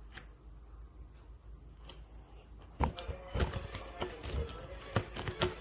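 Pink slime being squished and played with: faint at first, then wet clicks and pops that start about three seconds in.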